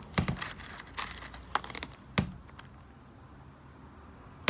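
Small pieces of rough opal clicking and tapping as they are handled and set down: a cluster of sharp little clicks in the first two seconds or so, then one more click at the very end.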